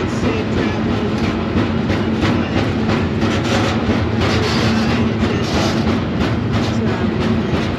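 Freight train rolling at speed, heard from aboard a car: a steady rumble of steel wheels on rail with a constant hum and frequent irregular clacks.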